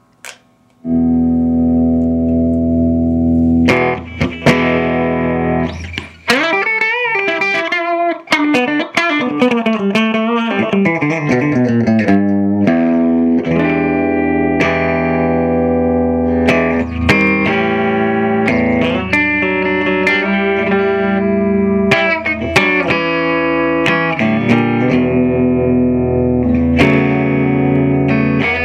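Electric guitar, a Stratocaster HSS on its bridge humbucker, played through a 15-watt cathode-biased EL84 valve amplifier. A chord is struck about a second in and left to ring, then comes a run of bent, wavering notes, then riffs and chords to the end.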